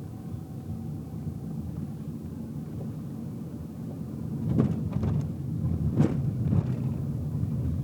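Steady low road and engine rumble inside a moving car's cabin, with a few short thumps and knocks a little past halfway through.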